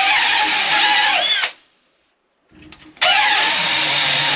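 Power saw cutting through copper water-heater supply pipe: the motor runs twice, its pitch dipping and rising as the blade loads and frees, separated by a short silent gap.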